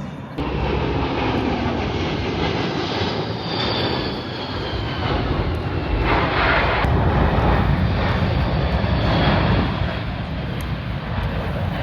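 Aircraft engine noise as an airplane flies past, starting abruptly, swelling twice, with a faint high whine that falls in pitch.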